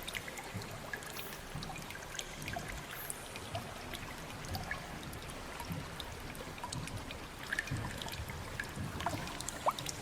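Water dripping and trickling: many small drops and splashes at irregular moments over a low steady rush of water, with a brief rising plink near the end.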